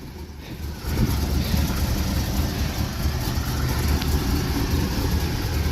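GM LS1 5.7-litre V8 idling steadily just after its first cold start following winter storage. It gets noticeably louder about a second in.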